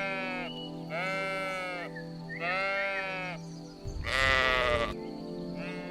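Sheep bleating repeatedly, about five wavering calls roughly a second apart, the one about four seconds in louder and harsher than the rest. Soft background music runs underneath.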